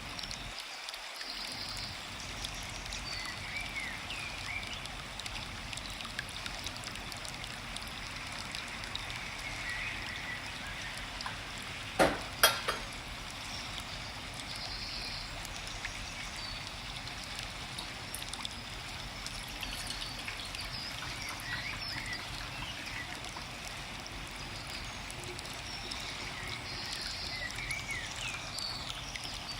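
Forest ambience of a steadily running stream, with scattered small bird chirps. Two sharp clicks sound close together about twelve seconds in.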